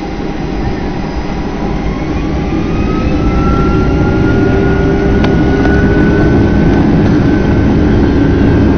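Airliner's jet engines spooling up to takeoff thrust: a whine rising in pitch over several seconds over a steady low rumble, growing louder, then holding steady.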